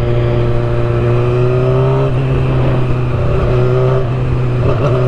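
Motorcycle engine under way, heard loud from the rider's helmet: its pitch climbs slowly, drops about two seconds in as it shifts up, and climbs again near the end.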